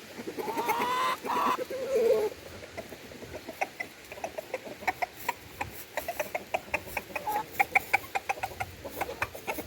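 Chickens clucking, with a few drawn-out pitched calls in the first two seconds, followed by a long run of short, quick ticks.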